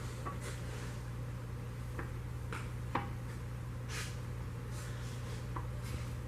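Camshaft being eased out through the cam bearings of a 1950 Mercury flathead V8 block, giving scattered faint metal clicks and scrapes over a steady low hum.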